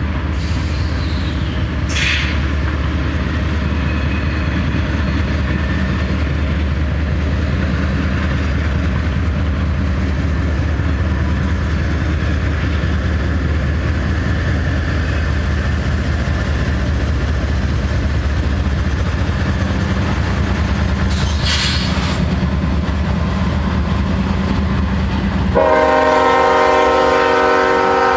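Diesel freight train running with a steady low rumble, with two brief sharp clanks along the way. Near the end a locomotive air horn sounds, loud and steady in several notes at once.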